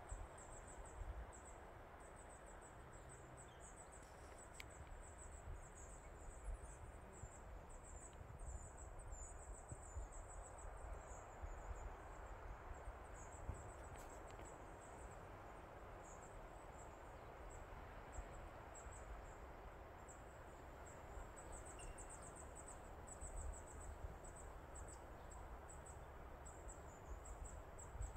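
Faint outdoor woodland ambience: insects chirping high-pitched in short rapid trains that recur again and again, over a low rumble of wind on the microphone.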